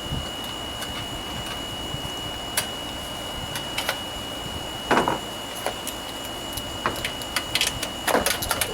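Scattered metallic clicks and clinks of hand tools and loose parts being handled during lawnmower repair, one louder knock about halfway through and a quick run of clicks near the end, over a steady hiss with a faint high whine.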